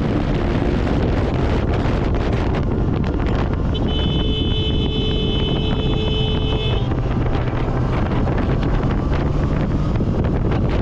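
Wind rushing over the microphone of a camera on a moving vehicle, with the vehicle running underneath. A steady high tone sounds for about three seconds in the middle, then stops.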